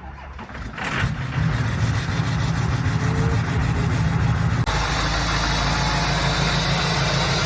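Diesel pickup engine cold-starting after a month of sitting in freezing weather: it cranks and catches within about the first second and runs rough. A little past four seconds in, the sound changes abruptly and settles into a steady cold idle.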